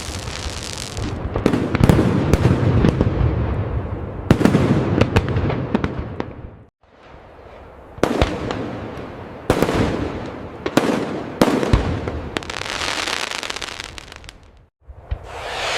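Fireworks display: a rapid run of aerial shell bursts, sharp bangs with deep rumbling tails and a thick crackle between them, dying down twice briefly before the next salvo.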